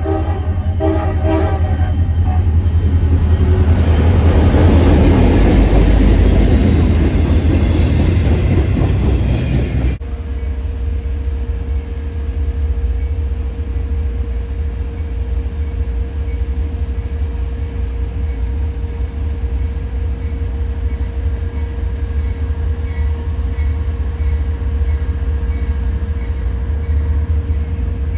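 Freight train passing: the horn sounds a chord that stops about two seconds in, then the diesel locomotives go by with a loud rumble that swells and fades. About ten seconds in the sound changes abruptly to the steadier rumble of freight cars rolling past, with one steady ringing tone over it.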